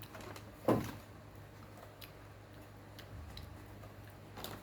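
A few scattered light clicks and one short, stronger knock less than a second in.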